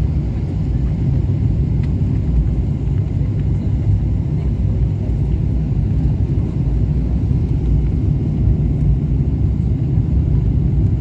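Steady low rumble of cabin noise inside a Boeing 777-300ER on approach: airflow and the GE90 engines heard from inside the cabin.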